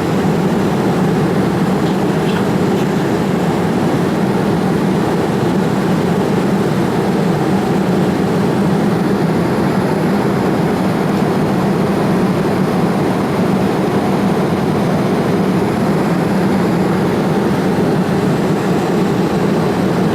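Steady cabin noise of a Boeing 787 Dreamliner in flight above the clouds: even engine and airflow noise, deepest and strongest in the low range, unchanging throughout.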